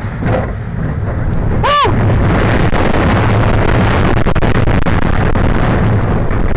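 Hurricane wooden roller coaster train running on its track, with loud wind buffeting the microphone over a heavy rumble and rattle. A brief tone rises and falls about two seconds in.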